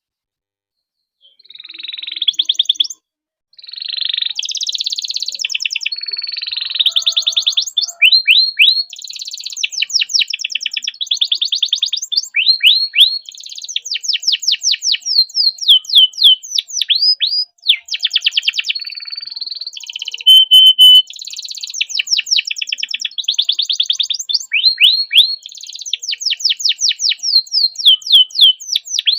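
Domestic canary singing a long, continuous song of fast repeated trills and rolls with sweeping high notes, starting about a second in after a moment of silence, with one steady held note about two-thirds of the way through.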